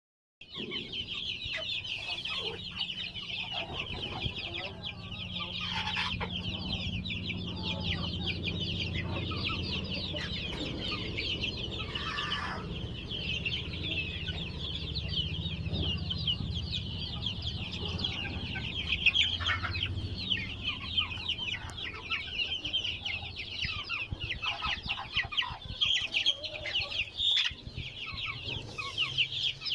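A flock of desi (native) chickens calling and clucking, a dense, continuous chorus of quick high calls with a few louder ones near the end, over a steady low hum.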